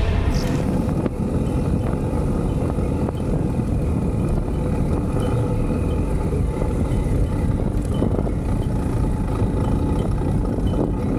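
A motor vehicle running steadily under a heavy, even low rumble.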